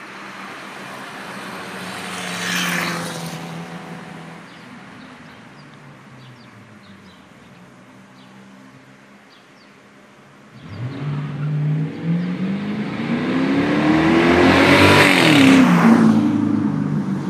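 Dodge Charger Hemi V8 with exhaust cutouts: the car passes by about three seconds in and its sound fades away, then about ten seconds in it sets off under hard acceleration, its engine note climbing steeply in pitch, and passes close by, loudest near the end.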